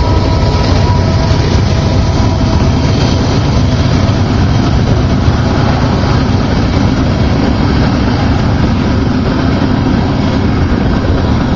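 Covered hopper cars of a freight train rolling past over a grade crossing: a loud, steady rumble and clatter of steel wheels on the rails, with the crossing bells ringing.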